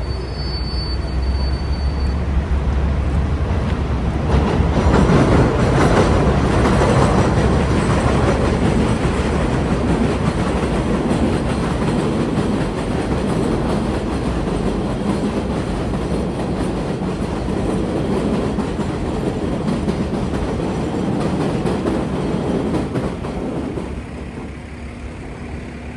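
New York City subway train passing close by, its steel wheels rumbling and rattling on the track. It swells to its loudest about five to seven seconds in and dies down near the end.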